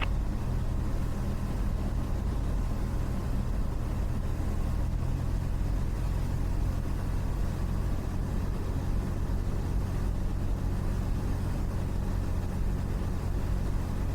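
Cessna 172's piston engine and propeller running, a steady drone heard from inside the cabin in flight.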